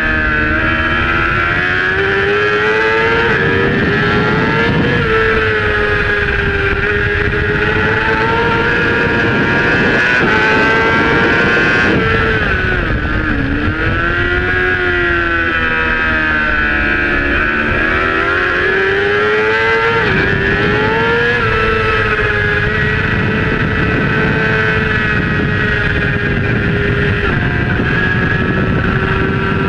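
Supersport racing motorcycle engine heard from the onboard camera at racing speed, its pitch climbing under throttle and dropping at gear changes: a sharp fall about halfway through as the throttle closes, then a long climb and another drop about two-thirds of the way in.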